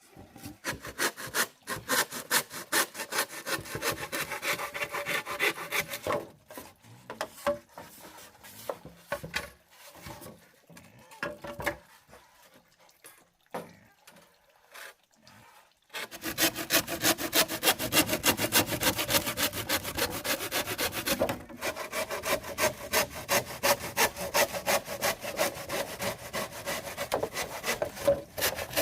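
Wood being sawn by hand with fast, rhythmic back-and-forth strokes. The strokes turn sparse and irregular after about six seconds, then pick up again steadily a little past halfway.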